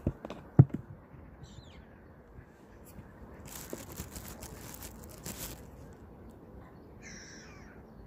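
A few dull knocks in the first second, then a patch of rushing hiss in the middle, and a short bird call near the end, over a faint outdoor background by the water.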